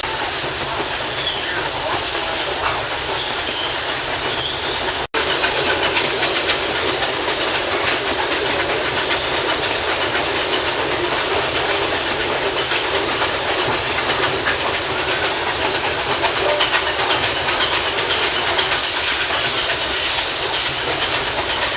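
Steam excursion train running on the track: a steady, dense noise of wheels and cars on the rails. The sound cuts out for an instant about five seconds in.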